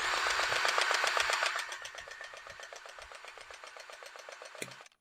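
Milwaukee cordless battery-powered grease gun running, its motor-driven pump pulsing rapidly and evenly as it pumps grease into an excavator grease fitting. It is loudest for the first second and a half, runs a little quieter after that, and cuts off abruptly when the trigger is released near the end.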